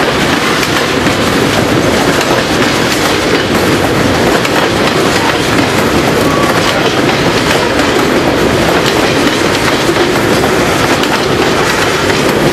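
Freight wagons rolling past close by: a loud, steady rumble of steel wheels on rail, with clickety-clack as the wheels pass over the rail joints.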